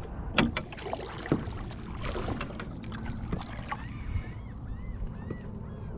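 Knocks and clicks of handling gear on a kayak over wind and light water noise, with a short run of chirps about four seconds in.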